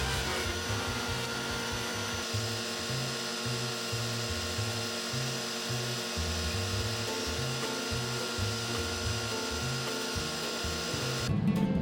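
A woodworking power tool machining wood under background music with a steady beat; the sound changes abruptly near the end.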